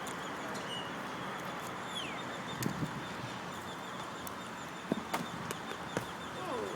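Outdoor background noise with a few short bird chirps and several sharp knocks. Falling calls near the end sound like fowl clucking.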